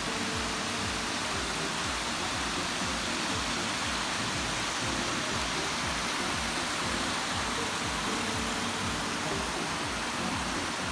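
Steady rushing of a mountain stream or small waterfall in a rocky gorge, an even wash of water noise that holds at a constant level.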